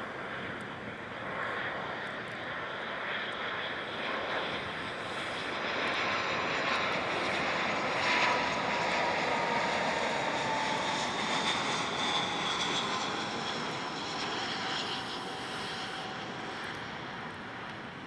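Airbus A319 jet airliner flying past on its landing approach, its engine noise swelling to a peak about eight seconds in and then fading. A whining tone slides down in pitch as it passes.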